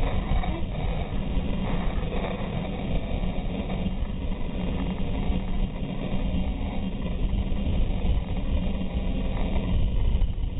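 Wind and road noise buffeting a GoPro camera's microphone on a racing bicycle at speed: a steady, loud, low rumble.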